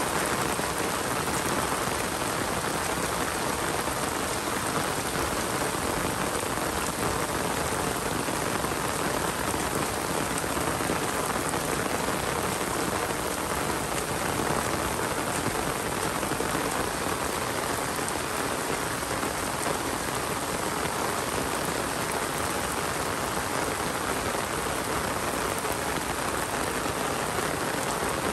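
Steady rain falling, dense and even throughout.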